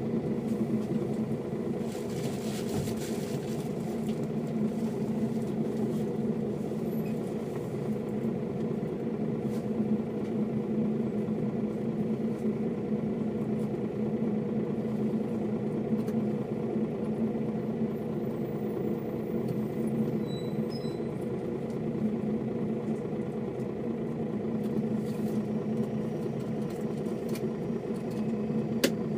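Mercedes-Benz O407 bus's six-cylinder diesel engine running steadily at one even pitch. There is a brief hiss about two seconds in and a sharp click near the end.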